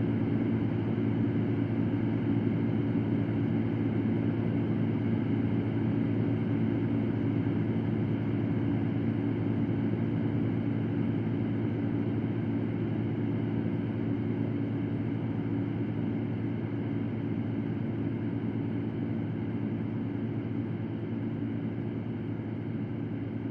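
Electric fan running steadily: a constant rush of air over a low hum, easing a little in level near the end.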